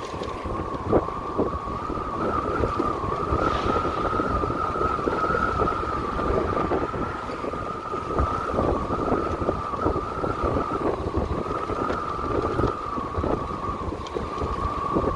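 Electric motorcycle motor whine while riding: a steady high tone that drifts slightly up and back down, under wind buffeting the microphone.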